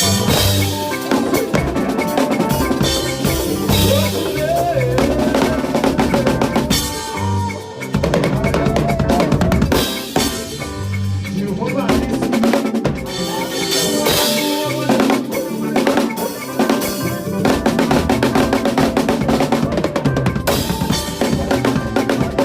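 Drum kit played in a busy, driving pattern of bass drum, snare and rimshots with rolls, along with makossa-style praise music that has a bass line and melody.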